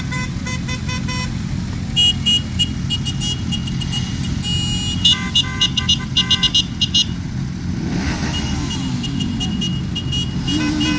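Motorcycle engines running steadily while horns beep in many quick repeated toots, thickest from about two to seven seconds in.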